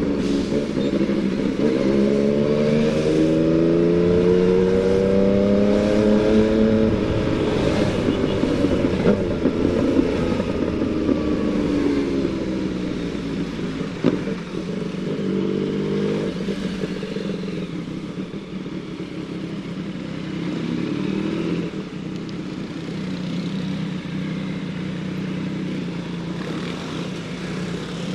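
Yamaha MT-09 three-cylinder motorcycle engine ridden at low speed: the revs climb in the first few seconds, then drop, with more short rises and falls of pitch. It runs steadier at lower revs through the second half. There is a sharp click about fourteen seconds in.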